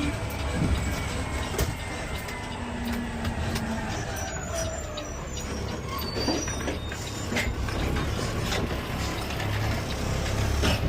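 Peterbilt 520 CNG automated side-loader garbage truck running: a steady low engine rumble with scattered clicks and rattles, and faint squeals that slide down in pitch in the first half.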